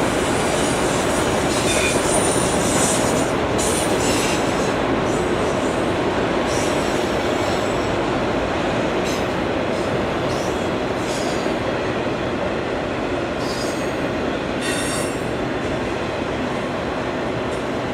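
A train rolling past: a steady rumble of wheels on rail, with brief high-pitched wheel squeals every few seconds.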